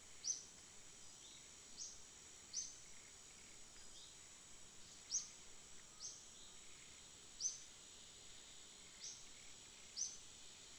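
Faint bird chirps: a short falling note repeated irregularly, about every second or two, over a steady high-pitched hiss.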